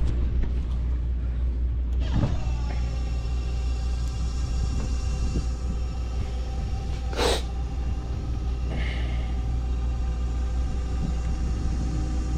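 Steady low mechanical rumble with a constant machine hum, with a short rushing noise about seven seconds in.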